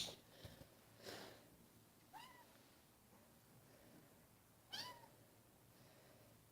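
A kitten giving two faint, short mews, about two seconds in and again near five seconds, each rising and falling in pitch. A faint soft noise about a second in.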